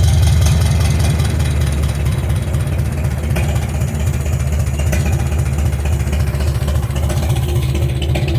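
Farmall M tractor's four-cylinder engine running at a low, steady speed through a 5-inch straight-pipe stack, with a deep, even exhaust pulse. It eases off a little about two seconds in.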